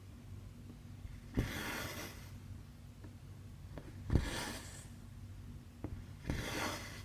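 Cross-stitch needle and floss working stamped 11-count fabric: three stitches, each a small tap as the needle goes through, then a short hiss as the thread is pulled through the cloth.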